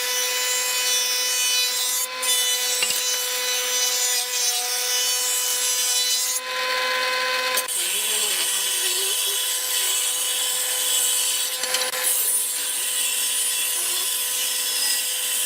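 An electric power tool running with a steady whine while cutting or working wood, with a brief change in the cutting noise about six and a half seconds in.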